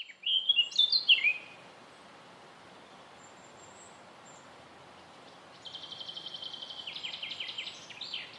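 Small songbird calling: a few quick, falling chirps at the start, then after a pause a fast trill of rapid repeated notes lasting about two and a half seconds.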